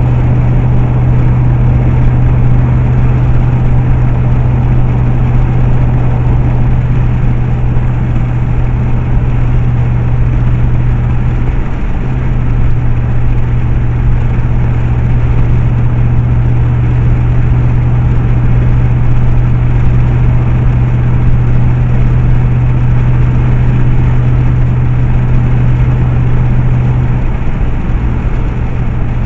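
Steady low drone of a vehicle's engine and road noise, heard from inside the cab while driving at speed, with a brief dip about twelve seconds in.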